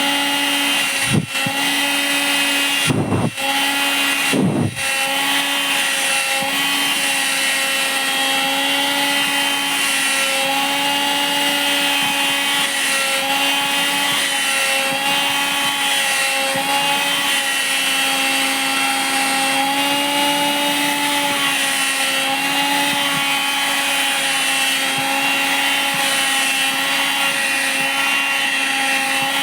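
Vacuum cleaner running steadily with its motor whine, its nozzle sucking at gym-uniform cloth. Three brief changes in the first five seconds, where the sound briefly shifts before settling back to an even hum.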